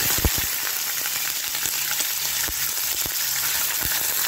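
Onion-garlic-ginger paste frying in hot oil in a kadhai, a steady sizzle, with a few dull knocks near the start as it goes in and is stirred.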